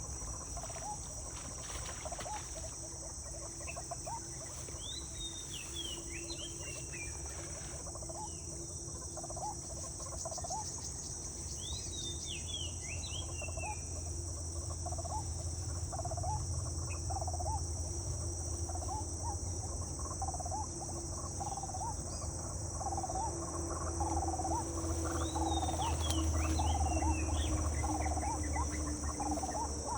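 Outdoor insect and bird ambience: a steady high insect drone, bird chirps coming in short bouts, and many short repeated calls that grow denser in the second half, over a low rumble.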